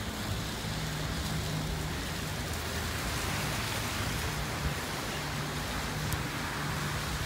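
Steady hiss of storm rain on a wet street, with a low engine hum underneath.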